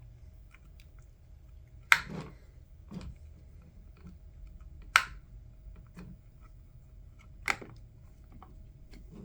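Sharp clicks and knocks of a headset's hard plastic parts being handled and set down, three loud ones about two and a half seconds apart with softer taps between, over a faint steady hum.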